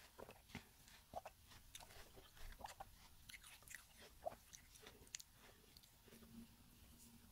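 Faint, close-miked chewing of watermelon: scattered soft clicks and small crunches.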